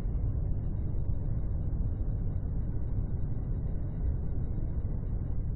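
A steady low rumble with no pitch and no distinct events, holding at an even level throughout.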